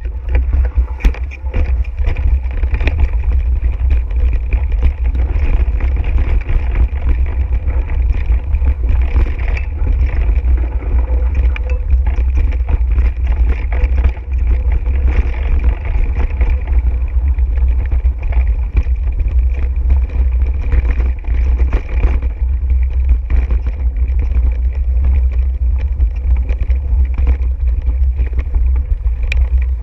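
Mountain bike riding over a rough dirt trail: constant heavy wind rumble on the camera microphone, with frequent irregular clicks and rattles from the bike jolting over the ground.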